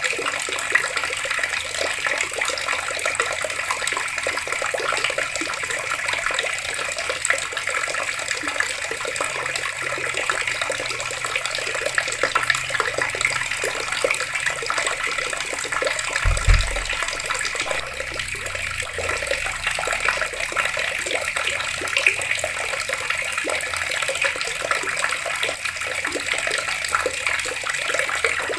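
Water running steadily from taps and splashing, with one short low thump a little past halfway.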